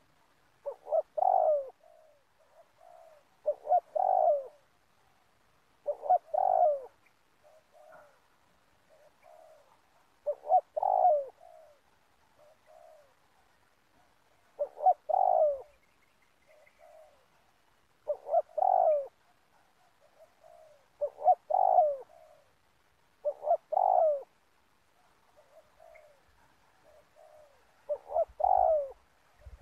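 Spotted dove cooing: a loud phrase of several coos repeated about every three seconds, with softer coo notes between the phrases.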